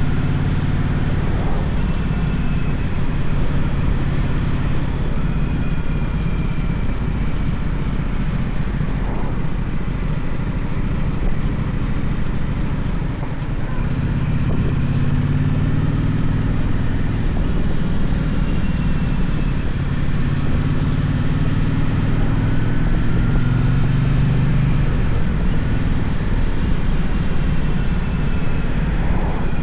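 Gaokin GK1200 motorcycle engine running under way, its low note rising and falling with the throttle, dipping briefly about thirteen seconds in and climbing again, over a steady rushing noise.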